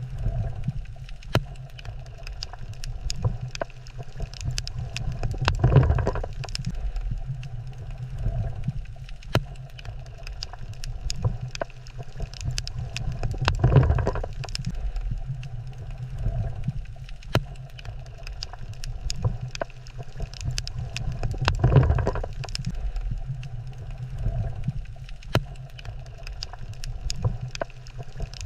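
Underwater reef ambience: a steady low rumble of moving water, dotted with many scattered sharp clicks and crackles, swelling louder about every eight seconds.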